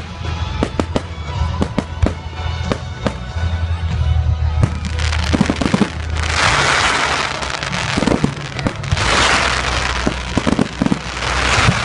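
Fireworks going off: a scatter of sharp bangs and crackles, then three long hissing, crackling bursts from about six seconds in. Music plays underneath.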